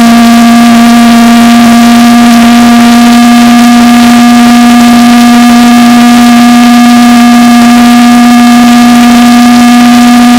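Propane-fuelled valveless pulse jet engine (Beck Technologies Focused Wave) running: a very loud, steady drone at one fixed pitch with higher overtones.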